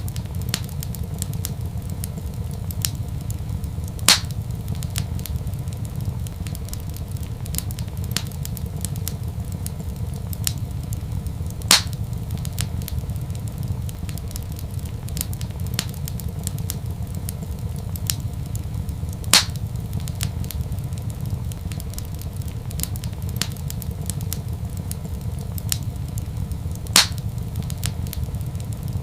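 Wood fire crackling in a fireplace over a steady low rumble, with frequent small clicks and a louder sharp pop about every seven and a half seconds, four in all.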